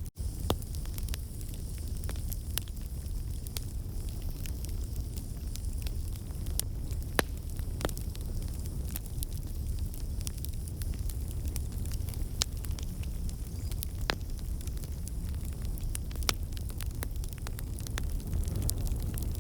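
Wood fire crackling in a fireplace: a steady low rumble with sharp pops and snaps scattered irregularly, a handful of them louder than the rest. The sound cuts out for an instant right at the start.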